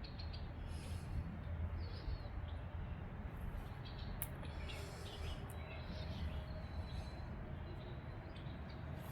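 Songbirds chirping on and off over a low, steady outdoor rumble.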